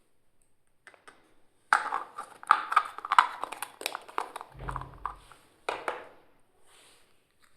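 Hands handling small plastic toy kitchen pieces: a quick run of clicks, taps and rustles, a dull thump in the middle, and one last click.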